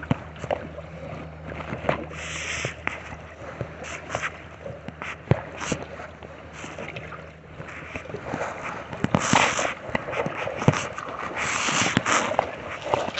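Kayak paddle strokes dipping and splashing in lake water, uneven and repeated, with a few sharp knocks of the paddle or gear against the kayak.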